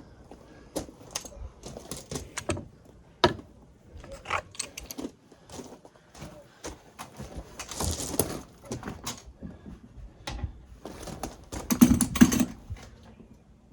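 Hand tools and metal pipe fittings being handled during water heater plumbing work: an irregular run of clicks, knocks and rattles, with a brief rushing noise about eight seconds in and a louder clatter near twelve seconds.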